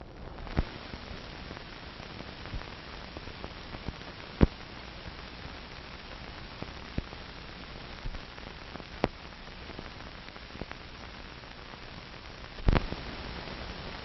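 Steady static hiss with scattered sharp clicks and pops, the surface noise of an old recording. The loudest pops come about four seconds in and near the end.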